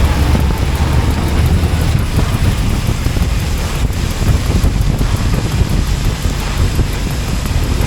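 Wind rushing over the camera microphone with road and engine noise from a Honda Beat 110 scooter being ridden, a loud, steady rumble.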